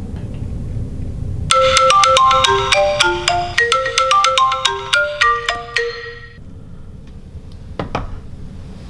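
Phone ringtone playing a quick, marimba-like melody of struck notes, starting about a second and a half in and stopping after about five seconds. A couple of soft knocks follow near the end.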